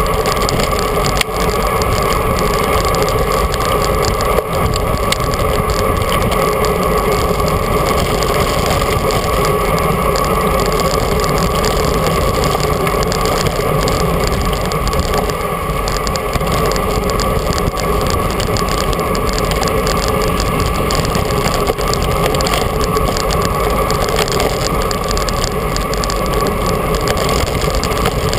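Steady, loud rush of wind over a GoPro action camera's microphone on a road bike moving at speed, with a constant hollow drone from the camera housing.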